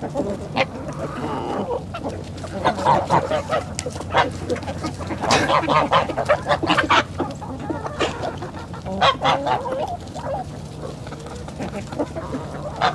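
A flock of poultry calling repeatedly in short, overlapping bursts, over a steady low hum.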